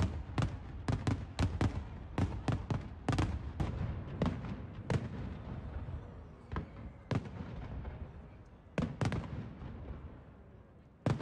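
Aerial fireworks bursting overhead: a fast barrage of sharp bangs, several a second, for about the first five seconds. The bangs then thin out to scattered single reports, with one loud bang near the end.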